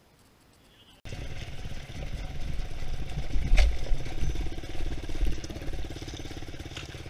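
Enduro dirt bike's engine running at low revs, heard close up from the rider's helmet, while riding down a steep rocky trail. The bike gives thumps and knocks as it goes over rocks, with one sharp knock near the middle. The sound cuts in suddenly about a second in, after near silence.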